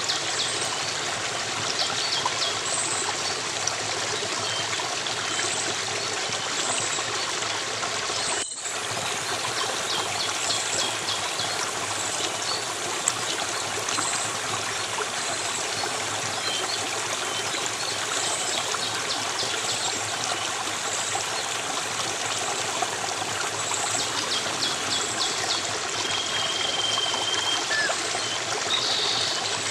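Steady babble of a flowing stream, with small birds chirping now and then over it. The sound drops out for an instant about eight seconds in.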